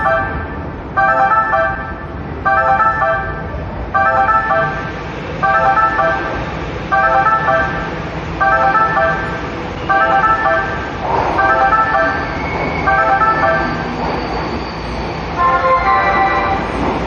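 Station platform warning chime: a short electronic two-tone alert repeating about every one and a half seconds, ten times, a brief pause, then once more near the end, signalling that a train is coming in. A low rumble from the railway runs underneath.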